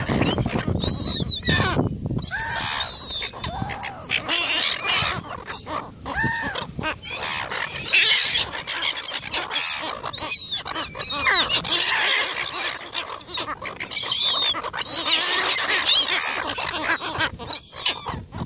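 A flock of gulls squabbling over food: many harsh, high calls overlapping almost without a break, each one rising and then falling in pitch.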